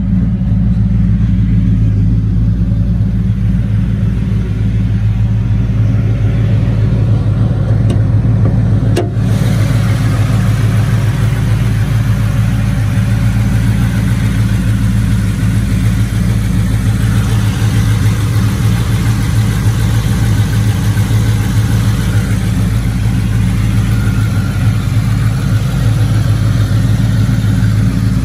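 A 2000 Mercury Grand Marquis's 4.6 V8, fitted with Stage 3 cams and Flowmaster Super 10 exhaust, idling steadily with no revving. It is heard first from inside the cabin, then under the open hood, with a brief click about nine seconds in.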